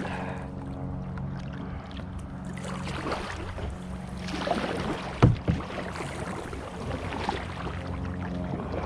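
Kayak paddling in shallow water, with paddle strokes swishing through the water and plants. There is a sharp knock a little past halfway, over a steady low hum.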